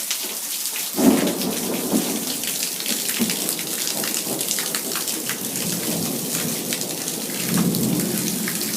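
Heavy rain from a thunderstorm, with many drops striking close by, and thunder: a sudden clap about a second in, then rumbling that swells again near the end.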